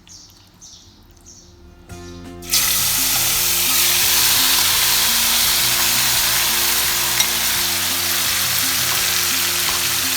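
Yoghurt-marinated chicken dropped into smoking-hot mustard oil in a kadai: a sudden loud sizzle about two and a half seconds in, which then carries on steadily as the meat fries.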